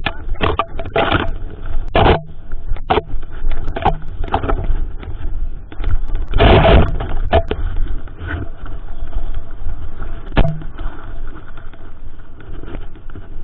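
Mountain bike riding over a rough trail: a steady tyre rumble broken by repeated knocks and rattles from bumps, with one longer loud jolt about halfway through.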